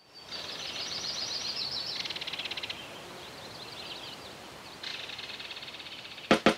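Small songbirds chirping and trilling over a faint outdoor hiss, with a rapid buzzy trill through the second half. Two sharp hits near the end.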